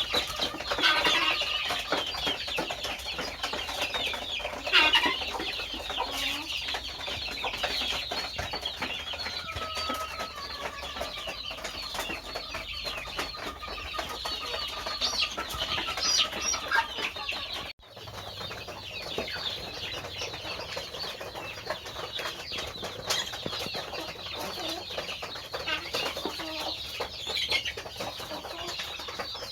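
Chickens clucking and calling, many short calls overlapping continuously, broken by a brief sudden gap about two-thirds of the way through.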